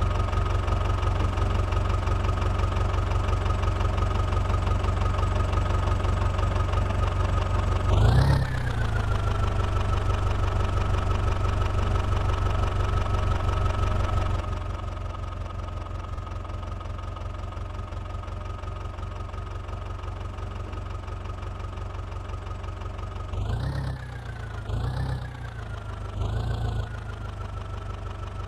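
Massey Ferguson 9500 DI tractor's diesel engine running steadily. It revs up and falls back once about a third of the way in, then settles to a lower, quieter run about halfway. Three short revs follow near the end.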